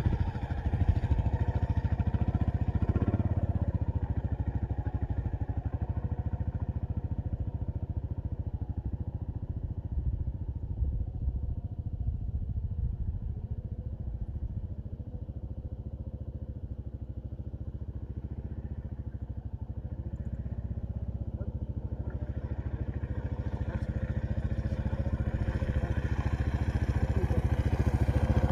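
Kawasaki KLR 650's single-cylinder engine running steadily, fading through the middle and growing louder again near the end.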